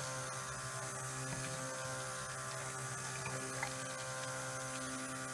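Stick blender motor running steadily with an even hum, mixing cold process soap batter to thicken it.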